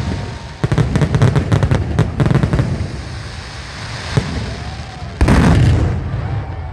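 Fireworks going off: a fast string of sharp crackling pops over low booms in the first couple of seconds. A louder burst follows a little past five seconds in.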